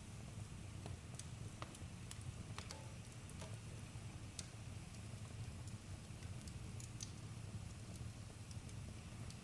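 Campfire burning with a low, steady rumble and scattered sharp crackles and pops.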